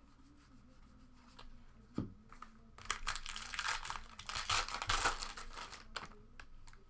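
Plastic wrapper of a trading-card pack being torn open and crinkled: a single tap about two seconds in, then about three seconds of crackling.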